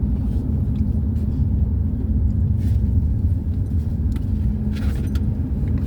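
Steady low rumble of road and engine noise heard from inside a moving car's cabin, with a few faint light ticks.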